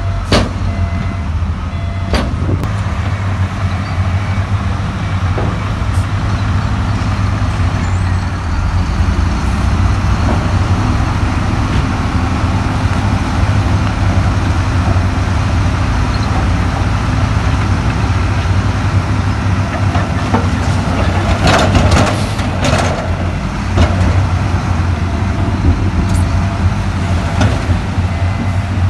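Heavy diesel earthmoving machinery running steadily under load, a deep continuous engine drone, with a burst of knocking and clatter about three-quarters of the way through.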